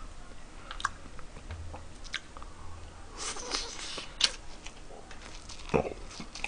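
A man eating a spoonful of rice mixed with Matdasi sauce close to the microphone: soft chewing and mouth sounds, with a few sharp clicks scattered through and a thump near the end.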